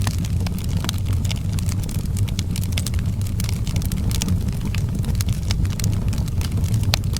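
Wood fire in an outdoor fireplace crackling, with frequent sharp irregular pops and snaps over a steady low rumble.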